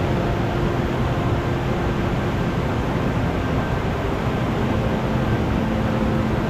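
Steady rushing of a rain-swollen mountain stream in a rocky gorge, an even noise with no breaks.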